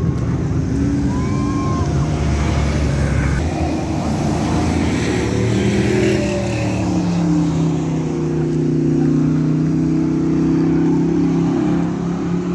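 Racing trucks' engines running hard around the oval, several engine notes rising and falling as the trucks pass.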